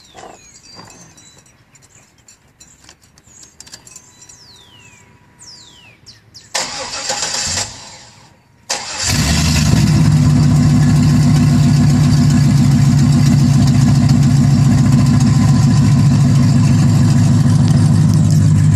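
A 1998 Pontiac Trans Am's LS1 V8, fitted with long-tube headers, being started. A brief burst of starter cranking comes about six and a half seconds in, then the engine fires about two seconds later and settles into a loud, steady idle.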